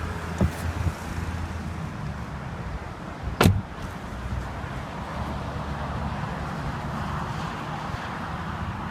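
2014 Mercedes-Benz SL550's retractable hardtop mechanism running as the roof folds, a steady hum over the idling car, with one sharp clunk about three and a half seconds in.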